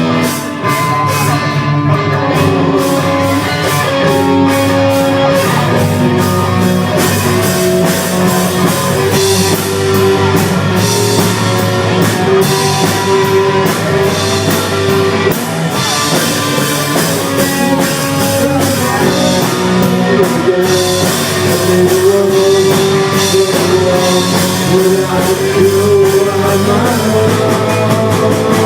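Loud rock music with electric guitar and a drum kit keeping a steady beat.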